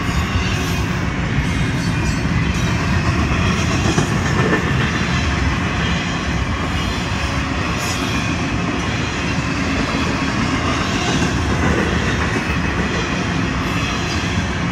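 Florida East Coast Railway intermodal freight cars (double-stack container cars, then flatcars carrying highway trailers) rolling past: a steady rumble of steel wheels on the rails, with a few knocks.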